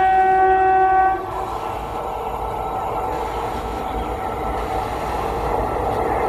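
Indian Railways express train's horn sounding one steady tone that cuts off about a second in, followed by the steady rumble of the train running past at speed.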